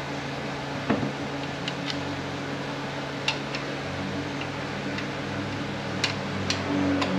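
A few sharp, separate metallic clicks and clinks of tools and transmission parts being handled, over a steady low hum.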